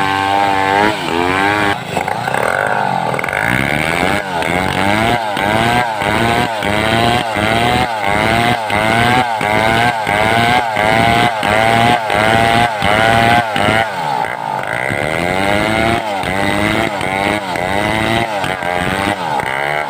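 Homemade two-stroke chainsaw running under load as it rips a log lengthwise, its engine note rising and falling about twice a second.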